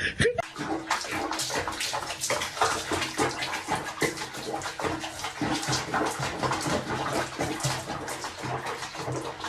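Water splashing and running, as in a bathtub or basin, with dense irregular sloshing throughout.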